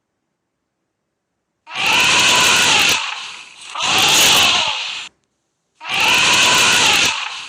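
Elephant trumpeting: after a short silence, two loud harsh calls in quick succession, then the same pair again.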